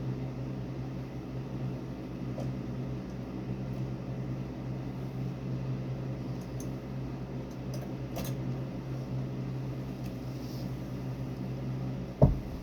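Steady hum of an electric fan motor running, with one sharp knock near the end.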